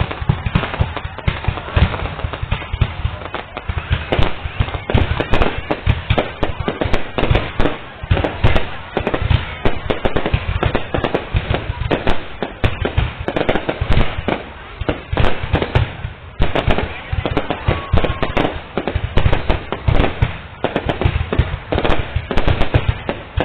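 Fireworks going off in a dense, continuous barrage of bangs and crackles, many per second.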